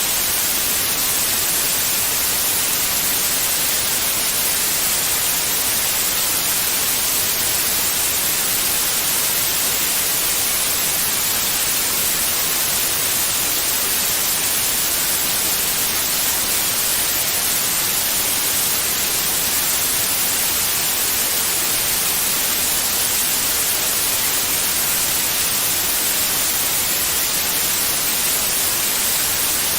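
Steady white noise, an even hiss weighted toward the high frequencies with no change or break, played as a sleep sound for babies.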